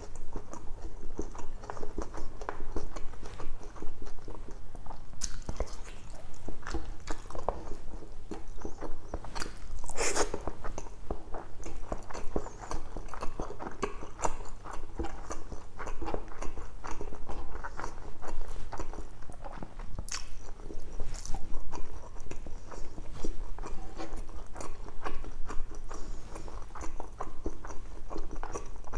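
Close-miked chewing and biting of a mouthful of braised pork belly, with many small wet mouth clicks. A few sharper, louder sounds come about ten and twenty seconds in. A steady low hum runs underneath.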